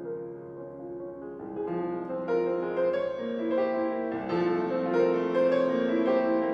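Piano playing classical music. It starts soft and grows louder and fuller about a second and a half in, with more notes and higher notes joining.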